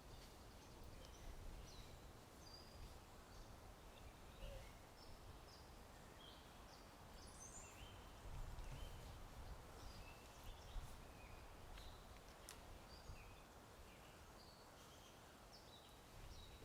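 Faint birdsong: many short chirps and trills from several birds, spread throughout, over a low steady wind rumble.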